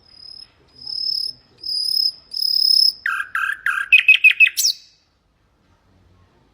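Nightingale singing one song phrase: four slow, high, drawn-out whistles, then lower repeated notes that quicken into a rapid trill and end in a quick sweep.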